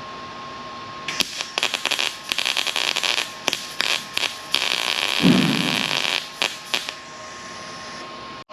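MIG welder crackling in a run of short bursts, stopping and starting between welds, as steel roof-structure panels are spot-welded.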